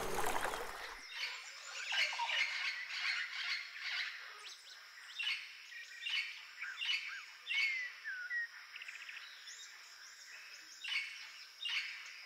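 Several wild birds calling: short chirps and squawks repeated every second or so, with a few whistled downward glides about halfway through, over a faint steady high hum.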